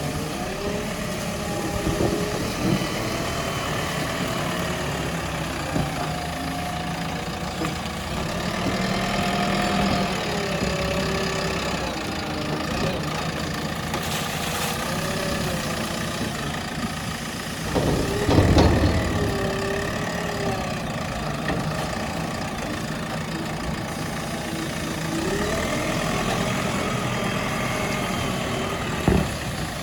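JCB 3DX backhoe loader's diesel engine running, its pitch rising and falling repeatedly as the front bucket works. A heavy clunk comes about two-thirds of the way through, and a sharp knock near the end.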